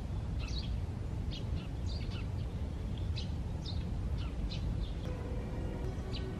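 Small birds chirping: short, quick, falling calls, roughly two a second at irregular spacing, over a steady low outdoor rumble.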